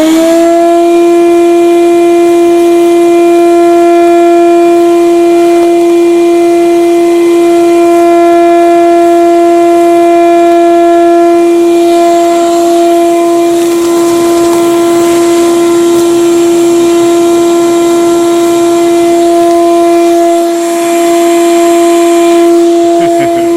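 Electric vacuum cleaner motor running at full speed with a loud, steady whine at one pitch, used to suck debris and leaves out of the car's interior.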